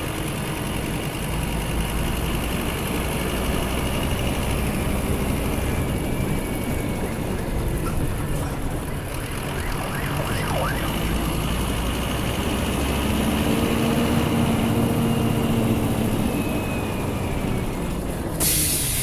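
Scania F250HB city bus's DC09 five-cylinder diesel engine running as the bus drives, a steady low hum with a pitched drone that grows stronger about two-thirds of the way through. Near the end there is a sudden loud hiss of compressed air, typical of the bus's air brakes.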